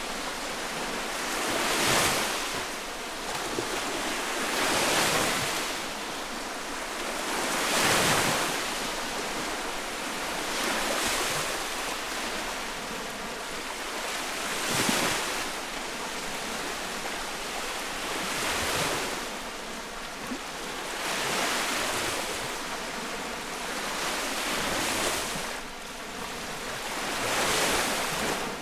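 Small lake waves breaking and washing on the shore close by, a new wave surging in every two to four seconds over a steady hiss of water.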